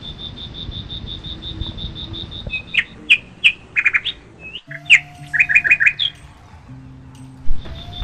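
Songbirds chirping: a rapid, even trill of high notes, then a run of short, sharp chirps and quick down-slurred notes in the middle, and the trill returning near the end.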